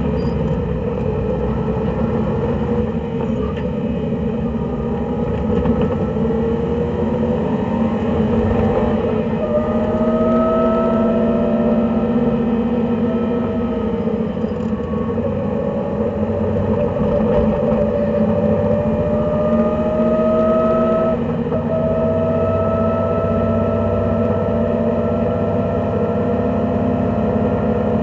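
Race car engine heard from inside the cabin at speed, running hard under load with tyre and road noise beneath it. Its pitch climbs slowly, dips briefly about 21 seconds in, then climbs again.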